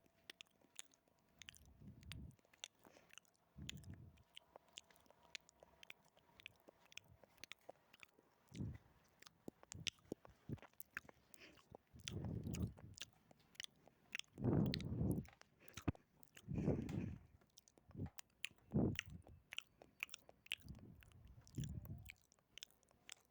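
Close-miked ASMR mouth sounds: many quick, wet tongue and lip clicks, broken every second or two by short, muffled low bursts.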